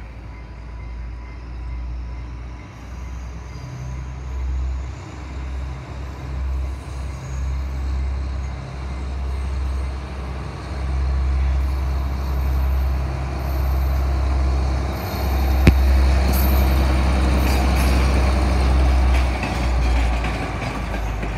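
Diesel passenger train approaching and running past, its engine rumble and wheel noise growing louder as it nears. A single sharp click comes about three-quarters of the way through.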